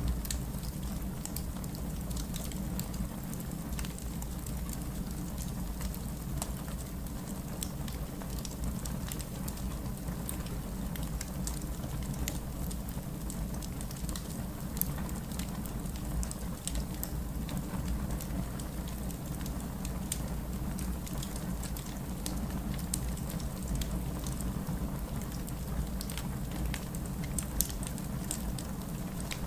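Wood fire burning in a fireplace: a steady low rumble with frequent small, irregular crackles and pops, a few sharper pops standing out.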